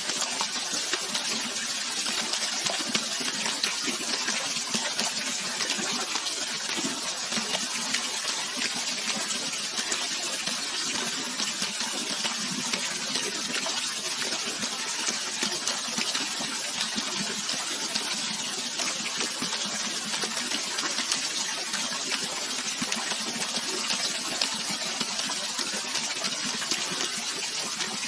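Natural running water, rushing steadily with fine continuous splashing and no change in level.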